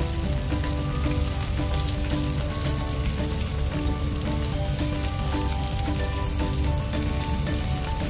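Shrimp sizzling in garlic butter in a frying pan: a steady, dense crackle. Background music with short held notes plays under it.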